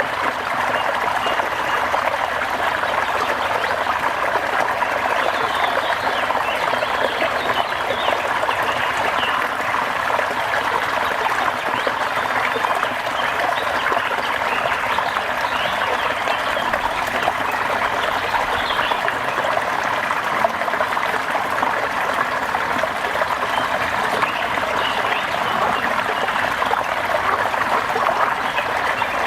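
Steady rainfall, an even unbroken hiss of water.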